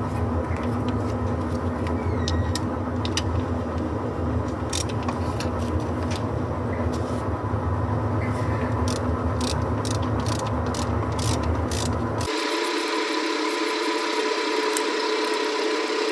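A steady low mechanical hum carrying a few held tones, with scattered light clicks. About twelve seconds in, the deep part of the hum cuts out abruptly and a thinner, higher hum goes on.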